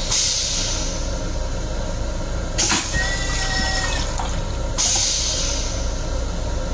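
Inside the restroom of an M7 electric railcar in service: the steady rumble of the car, with bursts of hissing right at the start and again near five seconds, and a short sharp knock a little before three seconds.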